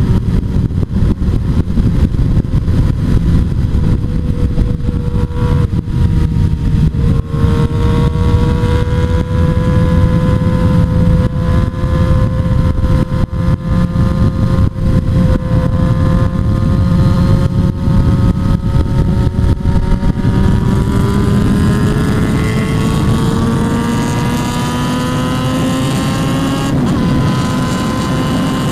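Motorcycle engine pulling at high revs, its pitch climbing slowly as the bike gathers speed, with a brief dip about six seconds in. Heavy wind buffeting on the microphone for the first two-thirds, easing near the end.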